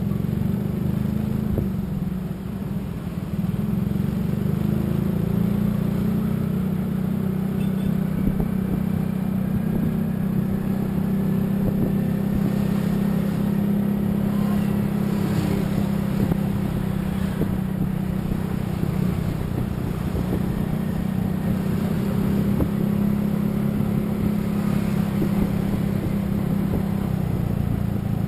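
Steady running noise of a road vehicle moving at speed: low engine and road rumble, with faint rising and falling tones from engines and tyres now and then.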